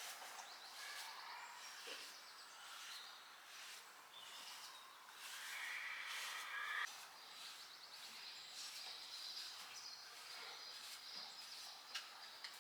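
Faint small birds chirping and twittering, with scattered light clicks and knocks and a brief brighter hiss about five to seven seconds in.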